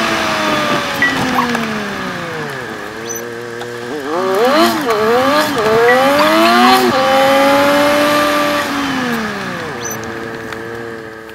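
Suzuki Jimny JB23's 660 cc three-cylinder engine and road noise inside the cabin, sped up about 3.7 times so the engine pitch is raised. The revs fall slowly, then rise and fall quickly several times around the middle, and sink away again near the end.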